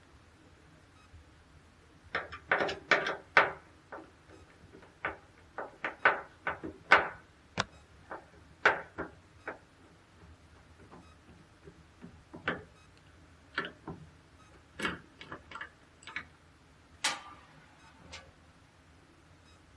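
Irregular sharp clicks and light knocks of hand tools and small metal parts being handled, some in quick clusters, others single.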